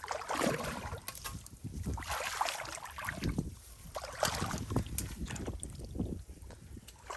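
Wet mud and shallow water sloshing and squelching in irregular strokes about once a second, as hands or feet work through a muddy crab hole.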